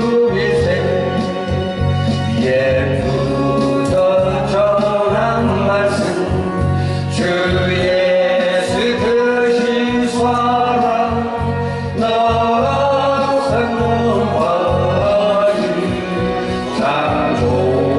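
A Korean Protestant hymn sung by voices over a steady instrumental accompaniment.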